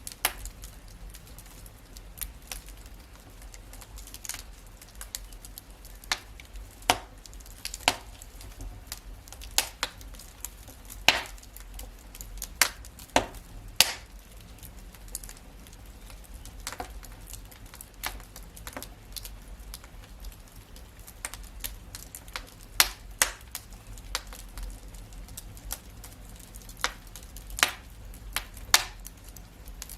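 Wood fire crackling in a fireplace: irregular sharp pops and snaps, one or two a second and some much louder than the rest, over a low steady rumble.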